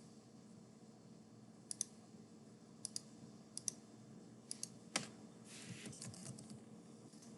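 Computer mouse clicking, mostly in quick press-and-release pairs about a second apart, then a short burst of keyboard typing about five and a half seconds in, while an online form is filled in. Faint, over a low steady room hum.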